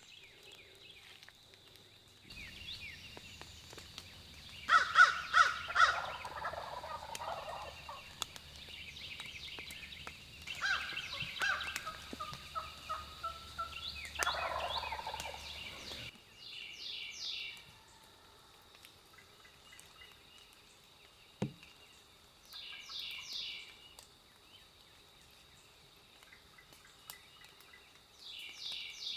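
Wild turkey gobbling: three loud, rattling gobbles between about five and sixteen seconds in, followed by shorter, higher-pitched bird calls. One brief thump comes a little past the middle.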